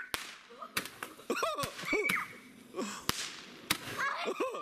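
Shot tube firework firing a series of sharp cracks, several spread across a few seconds, with a brief hiss around one of them; the shots are hitting a banana plant.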